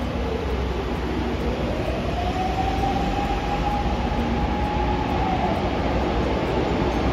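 A train running on the rails: a steady rumble with a whine that rises in pitch, holds level for a few seconds, then falls and begins to rise again near the end.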